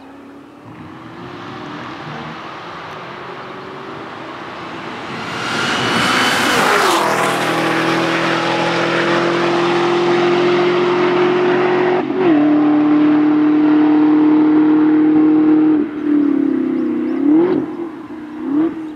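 Performance car engine at full throttle on a race track, building as it comes closer and dropping in pitch as it passes about seven seconds in. A steady high-revving engine note follows, with a brief break and a slightly lower note about twelve seconds in, and wavering revs near the end.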